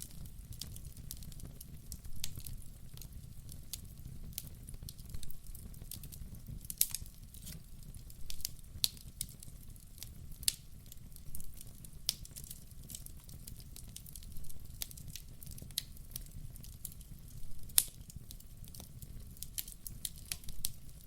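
Wood fire crackling in a fireplace: irregular sharp pops and snaps, a few each second, over a low steady rumble.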